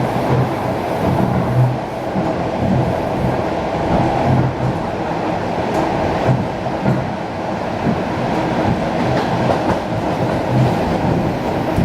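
ED4M electric multiple-unit train running on the rails: a steady rumble, with an occasional faint click of wheels over rail joints.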